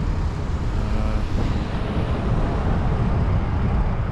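Steady street traffic noise: a low rumble of passing vehicles.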